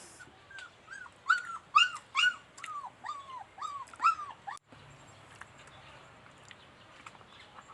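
A pet dog whining in a run of about a dozen short, high-pitched whines, each rising and falling in pitch, which cuts off suddenly about four and a half seconds in.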